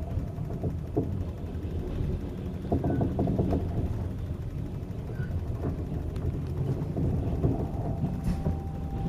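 Rossiya passenger train on the Trans-Siberian Railway heard from inside a carriage: a steady low rumble with scattered rattles and knocks. A faint steady whine comes in near the end.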